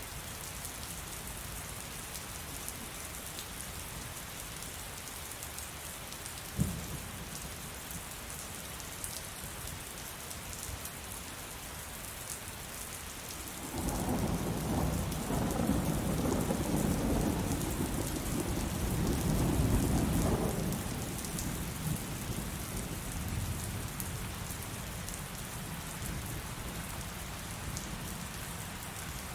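Heavy rain falling steadily, with a brief sharp crack about a quarter of the way in. Around the middle a long rolling rumble of thunder swells for several seconds, then fades back under the rain.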